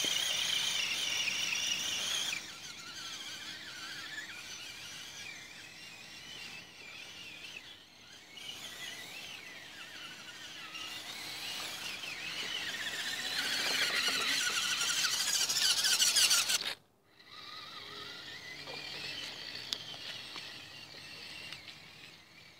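Electric motors and gearing of radio-controlled off-road trucks whining, the pitch rising and falling with the throttle as they drive through mud. It builds up to a loud peak, cuts off suddenly about 17 seconds in, then comes back quieter.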